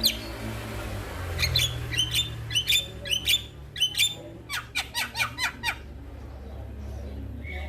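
Male Javan myna calling: a quick series of sharp, harsh squawks and chirps, easing off for a second or two near the end.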